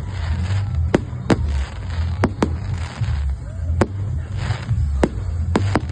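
Fireworks banging and crackling at irregular intervals, about ten sharp reports, several bunched together near the end, over a steady low rumble.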